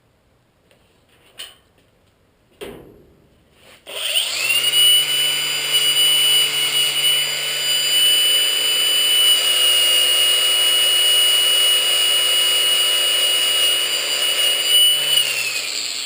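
A handheld power tool starts about four seconds in, after a couple of knocks, and runs steadily with a high whine for about eleven seconds, then winds down near the end.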